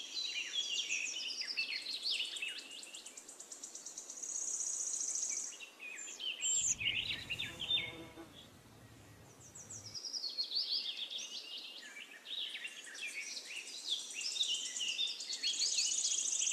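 A songbird singing two long, varied phrases of rapid chirps and trills, each ending in a high, fast trill. In the pause between them, a low hum lasts about three seconds.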